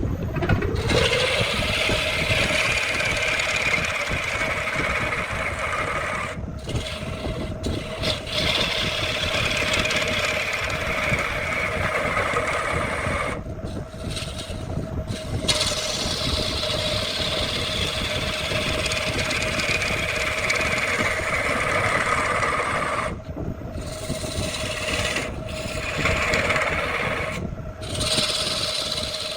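An electric power tool with a steady motor hum, worked against redwood in long scraping passes of several seconds each. The scraping drops away briefly between passes while the motor keeps running.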